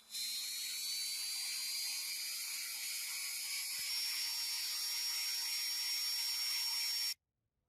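Small high-speed electric tool motor, such as a rotary tool or mini drill, running with a high whine whose pitch creeps slowly upward, then switched off abruptly about seven seconds in.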